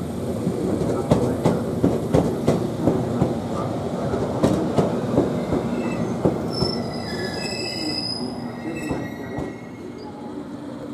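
JR Kyushu 787 series electric express train running past, its wheels clacking over rail joints in a steady rhythm of about two to three clacks a second. About six seconds in, as the last car goes by, the clacking fades and high steady wheel squeal sounds for a few seconds before dying away.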